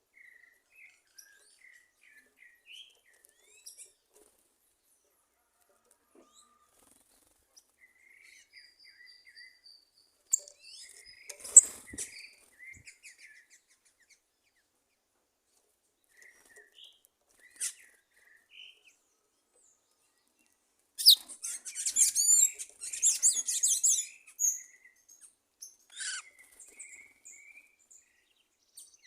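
Wild birds calling: scattered soft chirps, a loud sharp call about a third of the way in, and a loud, rapid, high-pitched warbling song for about three seconds past two-thirds of the way through.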